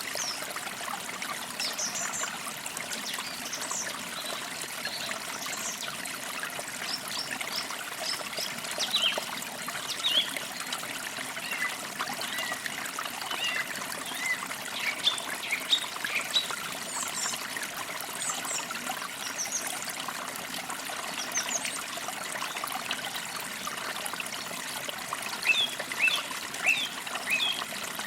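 Forest creek trickling steadily, with birds chirping in short, high calls throughout and a quicker run of chirps near the end.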